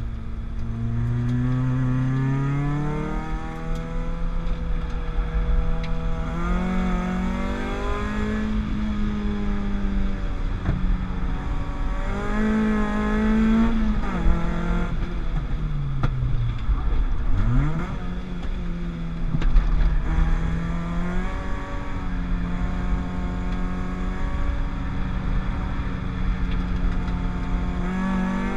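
Peugeot 205 GTI with a 206 RC 2.0-litre 16-valve four-cylinder engine, driven hard on track. The revs climb and then drop sharply again and again as it shifts gear and lifts for corners, with one quick rise in pitch about two-thirds of the way through.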